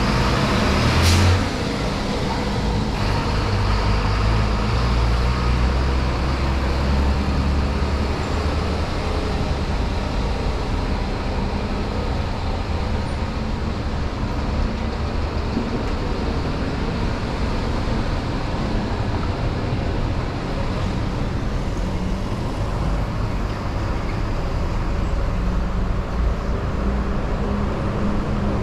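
Street traffic passing at close range, with the low engine rumble of a heavy vehicle for several seconds. A sharp, loud burst of noise comes about a second in.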